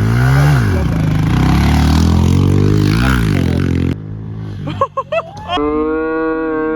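Mini bike engine revving hard, its pitch climbing and dropping again and again as it pulls away, cut off suddenly about four seconds in. Near the end a voice holds a long call.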